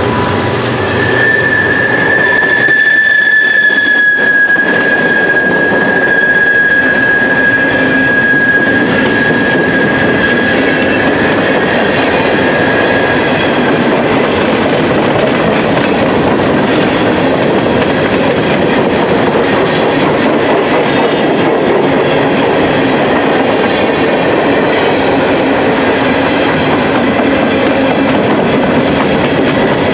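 Empty steel open-top coal hopper cars rolling past close by, a steady loud clatter and rumble of wheels on rail. A single high, steady wheel squeal sounds from about a second in and fades out after about twelve seconds.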